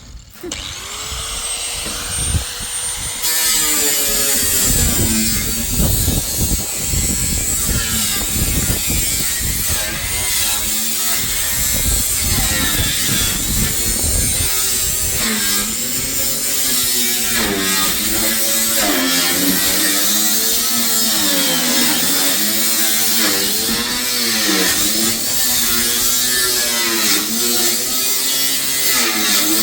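A small motor running continuously, its pitch repeatedly dipping and rising every second or two; it gets louder about three seconds in.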